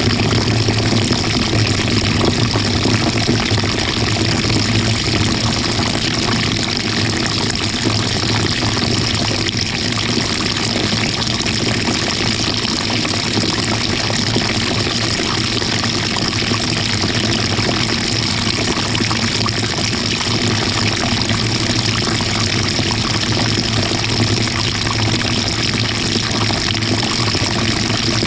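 GE top-loading washing machine running, heard from inside the tub: a steady sloshing of water over a constant low motor hum, with no breaks or changes.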